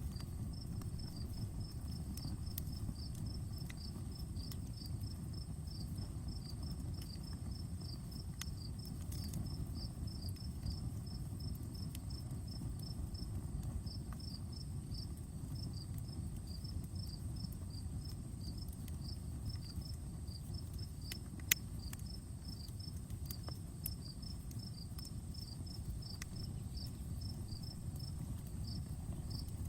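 Crickets chirping steadily in rapid, high-pitched trains, with a campfire crackling: scattered sharp pops, one louder pop about two-thirds of the way through, over a low steady rumble.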